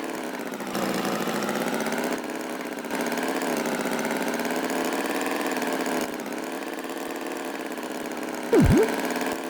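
A steady engine-like drone, idling at an even pitch. About a second before the end a loud, short tone swoops down in pitch and straight back up.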